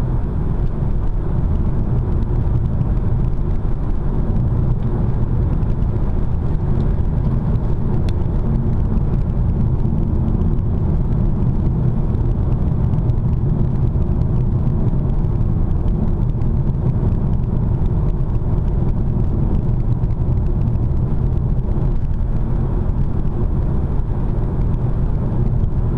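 Steady road and tyre noise of a car cruising at about 80 km/h, heard inside the cabin as an even low rumble.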